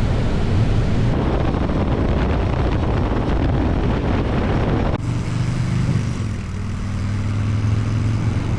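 Motorcycle engine running at road speed, a steady low hum with wind rushing over the microphone. The sound changes abruptly twice, about a second in and about five seconds in.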